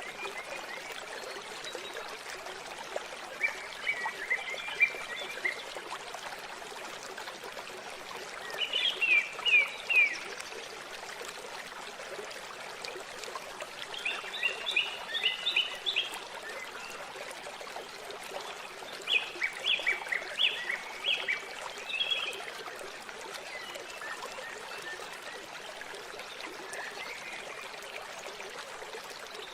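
Waterfall water rushing steadily, with a bird singing short phrases of quick high chirps four or five times over it.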